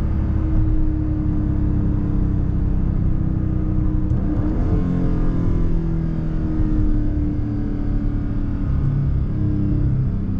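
Dodge Charger Scat Pack's 392 HEMI V8 (6.4-litre) running under way at road speed, heard from inside the cabin; its note changes about four seconds in.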